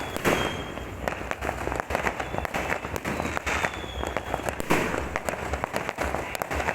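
Many fireworks and firecrackers going off at once in a dense, unbroken crackle of pops and bangs, with a faint thin whistle now and then.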